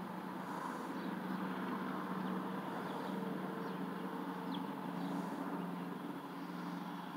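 Motor vehicle engine running with a steady low hum that swells slightly and eases toward the end, with a few faint short bird chirps above it.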